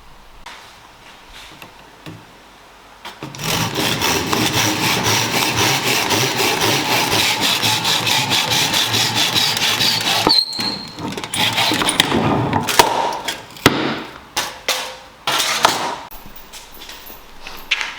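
Tool work on wood: a loud rasping noise with a fast, even rhythm for about seven seconds, then several sharp knocks.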